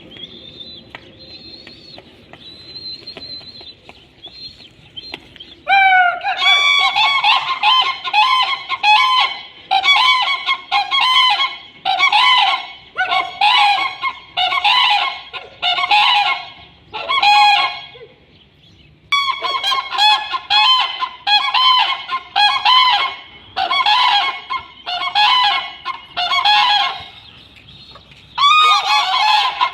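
Common cranes calling: loud, trumpeting calls repeated about once a second in long bouts. They begin about six seconds in, after a quieter start, and break off briefly twice.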